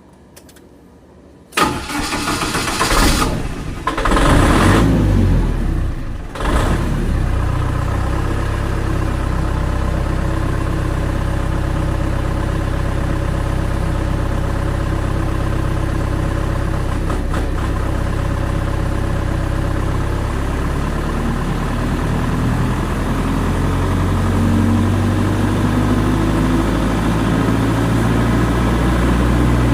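Generator set's engine starting about a second and a half in, running unevenly for about five seconds, then catching and settling into a steady run. Its low hum shifts pitch about twenty seconds in.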